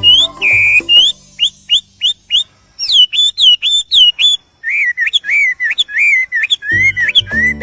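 A songbird singing a run of quick, clear whistled notes that swoop up and down, in repeated phrases. Background music with a low beat plays under it at the start, drops out after about a second, and comes back near the end.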